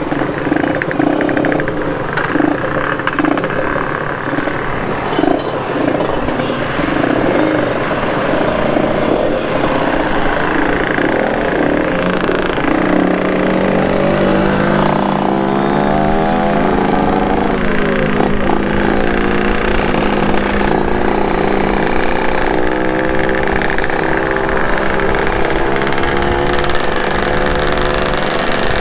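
Two-stroke motorcycle engine running under way, with wind rushing past. Its pitch rises and falls repeatedly about halfway through as it revs through the gears.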